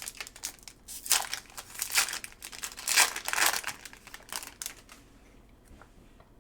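A trading card pack wrapper being torn open and crinkled by hand. It comes in irregular rustling bursts for about five seconds, then stops.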